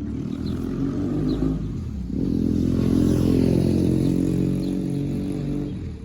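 A vehicle engine running, easing off about two seconds in and then picking up again.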